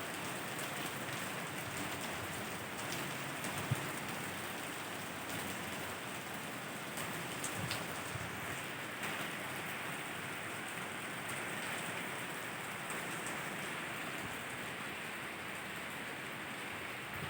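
Steady rain falling and pattering on surfaces, with a few sharper drips or taps standing out now and then, the clearest about four seconds in.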